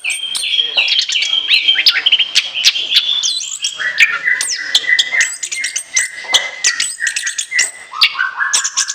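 Orange-headed thrush singing a long, varied chattering song without a break: fast whistled notes, slurred rising and falling glides, and sharp chips.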